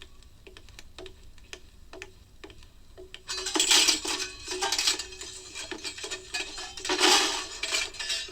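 Metal garbage can clattering: a run of light knocks, then loud rattling and banging from about three seconds in, the sound of climbing down into the can.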